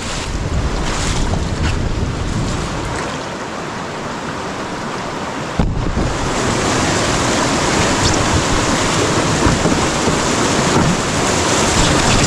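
Rushing water of a river rapid: a steady, loud hiss of white water. About halfway through there is a sharp click, and after it the rushing is abruptly louder.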